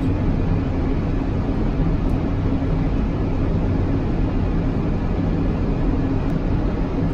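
Steady noise of an airliner's engines and airflow on short final approach, just before touchdown, with a low hum underneath.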